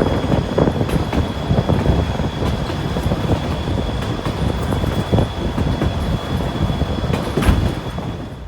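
Riding in a passenger car of the White Pass & Yukon Route train: the wheels on the rails make a steady rumble with a running clatter of small clicks and a faint high whine, and one louder knock comes near the end.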